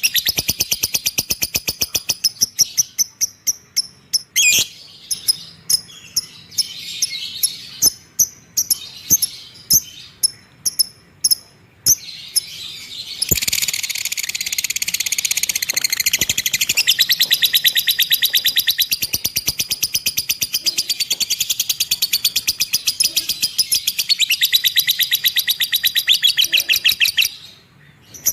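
Lovebird ngekek: a long, rapid chattering trill of high, dry notes that runs unbroken for about fourteen seconds and then cuts off. Before it come quicker bursts and spaced single chirps.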